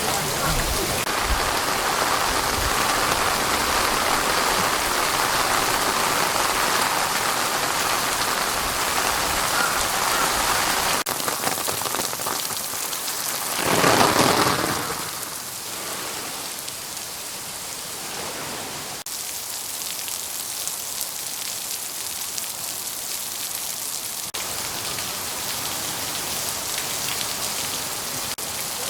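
Steady rain falling and spattering on surfaces. It is heavier for the first ten seconds or so; about halfway through it swells briefly and loudly, then settles to a lighter, even patter.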